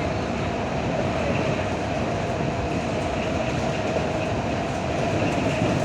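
Electric commuter train running at speed, heard from on board: a steady rumble of wheels on rail with a steady hum running through it.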